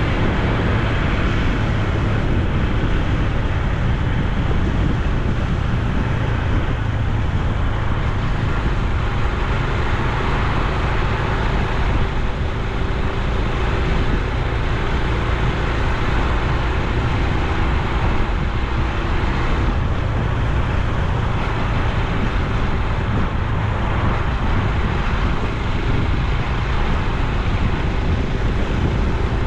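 Honda Super Cub C125's single-cylinder four-stroke engine and exhaust running steadily while riding, mixed with wind rushing over the microphone.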